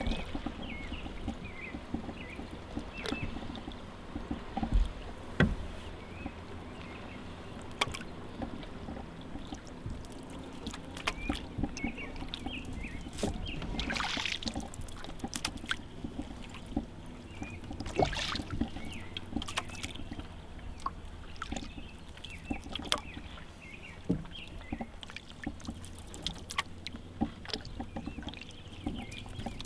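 Canoe paddling: paddle strokes splashing and dripping in the water, with scattered sharp knocks and two larger splashes about halfway through.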